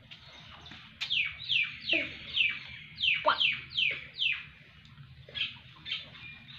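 Bird chirping: a quick series of high chirps, each falling in pitch, about two or three a second, starting about a second in. A few lower mews from a young kitten come in among them.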